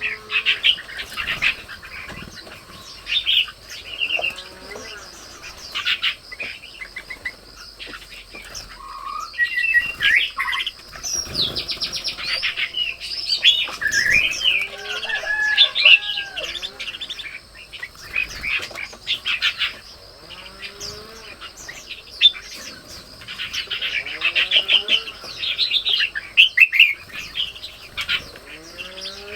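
Garden birds chirping and calling in quick, overlapping short phrases, with lower drawn-out calls every couple of seconds, over a steady high-pitched whine.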